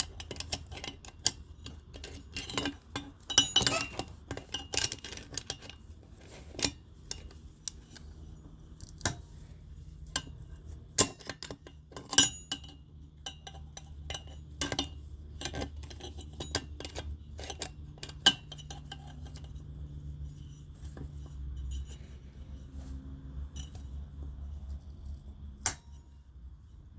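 Metal hand tools clinking and tapping against metal parts of a cylinder head, in irregular sharp clicks that are thickest in the first half. A faint low hum runs underneath.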